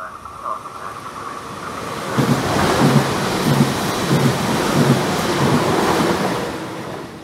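Trenitalia ETR 563 electric multiple unit passing close by at speed: a rising rush of wheel and air noise with a run of low clattering beats from the wheels on the track, fading away near the end as it moves off.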